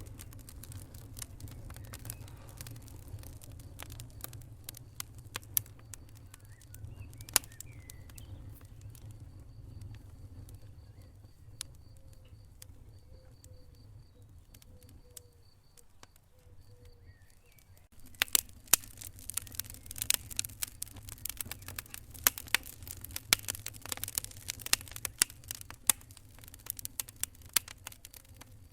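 Wood fire in a fireplace crackling and popping over a low steady rumble of the flames; the pops are scattered at first and come thick and fast for the last third.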